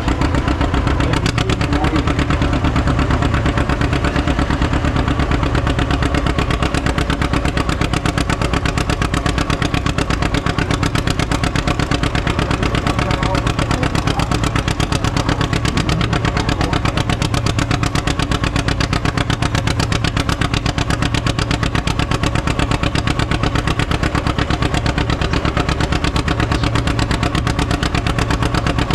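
Antique tractor engine running steadily, its rapid firing pulses even and unbroken.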